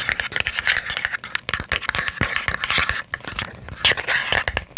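Rapid, irregular tapping and scratching on small boxes, many quick taps a second.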